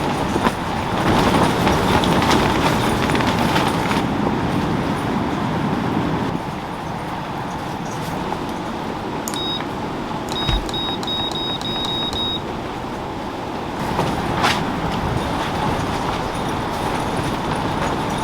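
Steady rain noise. About ten seconds in, a short run of high electronic beeps sounds.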